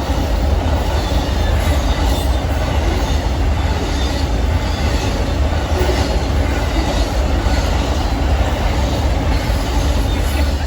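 Train cars of the Amtrak Auto Train rolling past at speed close by: a loud, steady rumble with wheel clicks over the rail joints. It begins to fade away just as the last cars go by.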